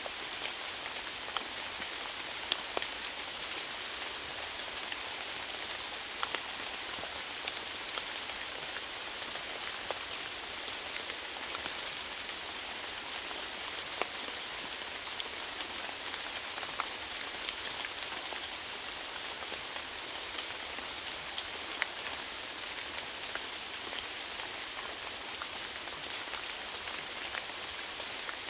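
Steady rain falling, an even hiss with many small drop taps and a few sharper individual drips.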